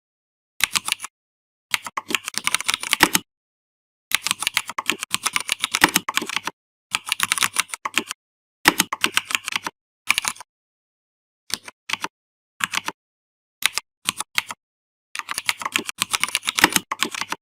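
Computer keyboard typing in quick runs of keystrokes, with short dead-silent pauses between the runs; the longest runs last about two seconds, and there are only a few brief taps between about eleven and fifteen seconds in.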